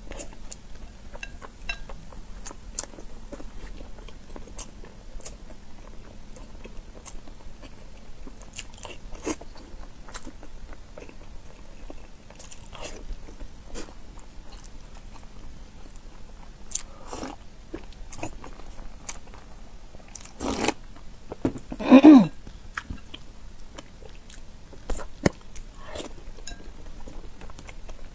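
Close-miked biting and chewing of soft boiled eggs: wet mouth sounds with scattered small smacks and clicks. About three-quarters of the way through comes a brief, louder throaty sound, the loudest moment.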